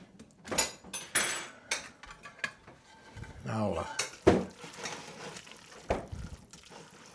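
Serving utensil clinking and scraping against a pot and plate as pasta is dished up: a string of short, irregular clinks and scrapes.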